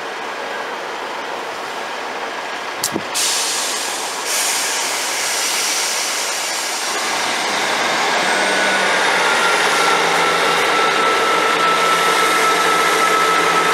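Diesel multiple unit at a station platform: a couple of clicks and a short hiss of released air about three seconds in. Then its engines rev up, getting louder with a rising whine, as it starts to pull away.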